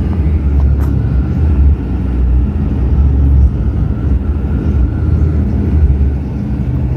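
Steady low rumble of a truck being driven on a snowy road, heard from inside the cab: engine and tyre noise.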